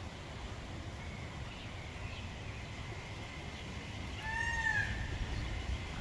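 One short bird call that rises and falls in pitch, about four seconds in, over a steady low rumble of wind and water.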